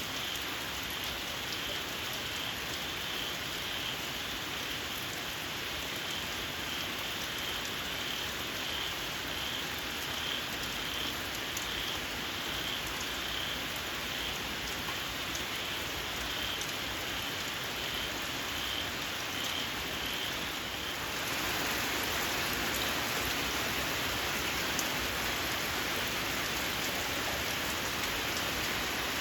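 Steady rain with a small frog's shrill call repeating in quick, even pulses, which stops about two-thirds of the way in as the rain gets a little heavier.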